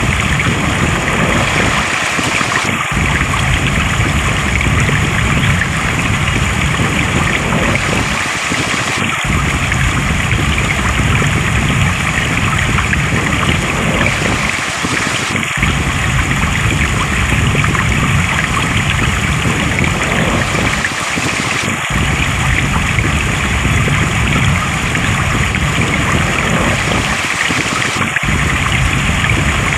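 Flowing stream water rushing steadily. Its low rumble drops out briefly about every six and a half seconds, where the same stretch of sound repeats.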